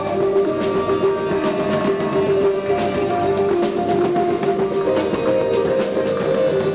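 Live instrumental band music: held, sustained guitar-like notes shifting slowly in pitch over drums with frequent light cymbal strokes.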